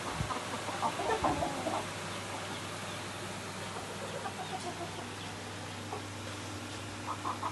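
Desi chickens clucking in short repeated calls, busiest in the first two seconds and picking up again near the end, over a low steady hum.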